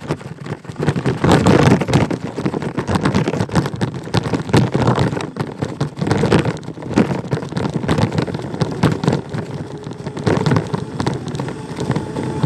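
Riding a dirt bike over rough ground: a steady rumble and rattle of the wheels, with wind buffeting the phone's microphone.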